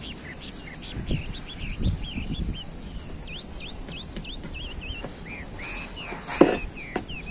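A small bird chirping in quick, repeated short high notes. Underneath are soft scrapes of a hand trowel pushing potting soil in a plastic planter, and there is one louder short sound near the end.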